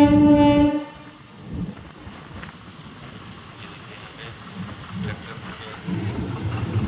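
A train horn gives one steady blast of about a second, followed by the quieter rumble of a train running on the line.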